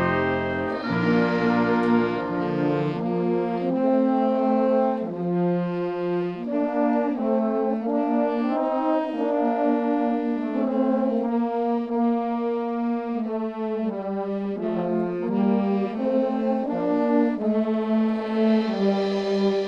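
Brass ensemble playing a piece in harmony, several horns moving together from chord to chord, with low bass notes under the first few seconds.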